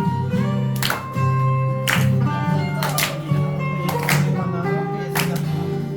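Live band playing an instrumental break between sung verses: a guitar melody over sustained chords, with a drum hit about once a second.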